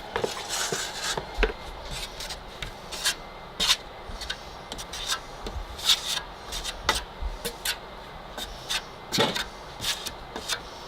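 Steel trowel smearing and dabbing thinned drywall joint compound onto the wall for a hand texture: irregular short scrapes and slaps.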